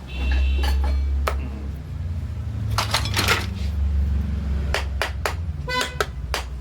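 Metal tools clinking and tapping on a motorcycle engine as its cylinder head is bolted on: a string of sharp metallic clicks and clanks, a few ringing briefly near the end, over a steady low hum.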